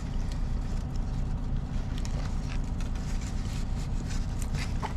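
Steady low rumble of an idling vehicle engine, with a few faint clicks above it.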